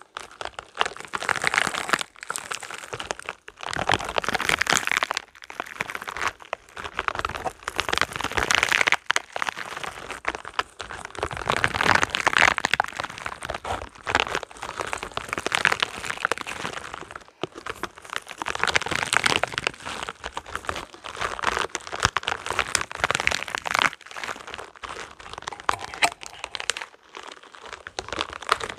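Spiky rubber balls being squeezed and handled close to the microphone, making dense crackling, crunching noises in repeated clusters of a second or two with short pauses between.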